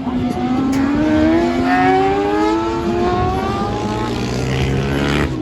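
Racing motorcycle engine accelerating hard, its note rising steadily in pitch over about three seconds. About two-thirds of the way in, a second, lower, steady engine note joins it.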